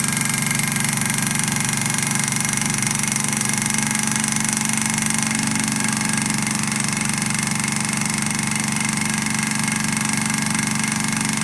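Small candle-heated beta-type Stirling engine running fast and smoothly, near its 1550 rpm top speed, with a better-fitting piston. It makes a steady, even hum that holds at one pitch.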